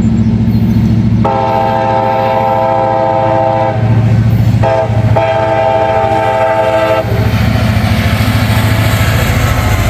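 CSX diesel locomotive's multi-chime air horn sounding a long blast, a short one, then another long blast over the steady rumble of the engines. After the horn stops the train passes close, with wheel and rail noise building.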